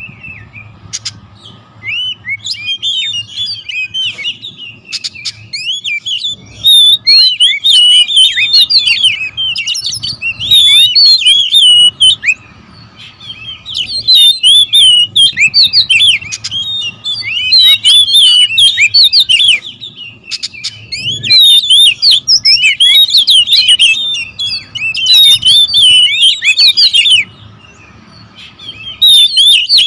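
Several oriental magpie-robins (kacer) singing and chattering at once in a noisy territorial squabble, with fast, varied whistled phrases in loud bursts broken by brief lulls.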